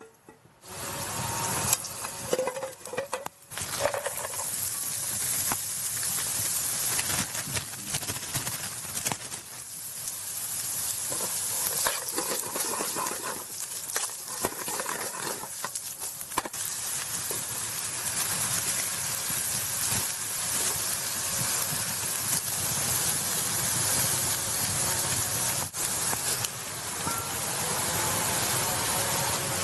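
Food sizzling in a hot pan, starting suddenly about half a second in. Scattered pops and crackles come in the first few seconds, then the sizzle runs on evenly.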